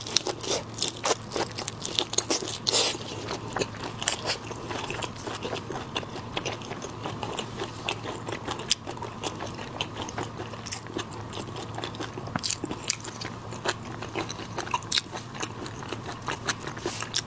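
Close-miked eating of shrimp: shells crunching and crackling with many quick sharp clicks, and wet chewing.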